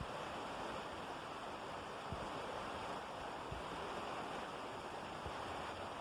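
Steady rain falling, an even hiss, with a few faint low thumps about two, three and a half and five seconds in.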